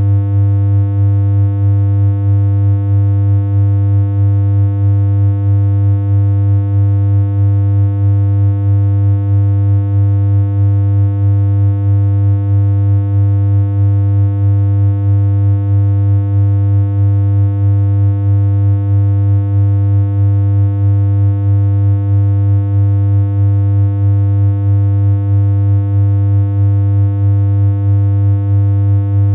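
A synthesized electronic hum: one low, buzzy tone held without change, with a slight regular pulse in loudness.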